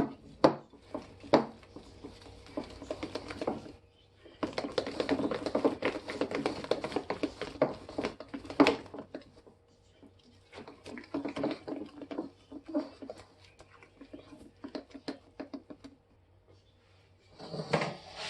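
Cake batter being mixed by hand in a bowl, the utensil ticking and scraping rapidly against the bowl in bouts with short pauses. The busiest stretch comes around the middle.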